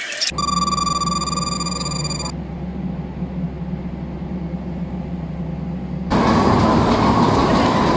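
Steady vehicle running noise in short cut clips: a steady whine of several high tones for about two seconds at the start, then a lower hum, then a louder rushing noise from about six seconds in.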